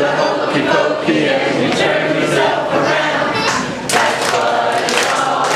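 A group of voices singing together over crowd noise, with a few sharp knocks or claps among them.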